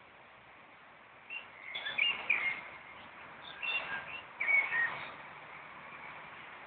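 A songbird singing: three short bursts of quick, high chirps between about one and five seconds in, over a steady hiss.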